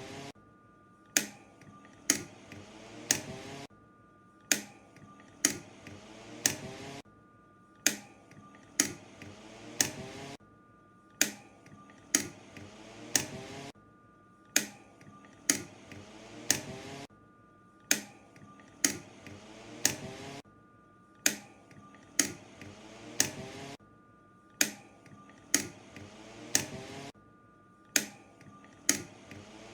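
Push buttons on a commercial high-velocity fan clicking as they are pressed, over and over. They come in rounds of three or four sharp clicks, and the motor hums and rises in pitch between clicks. Each round ends in a short quiet stop.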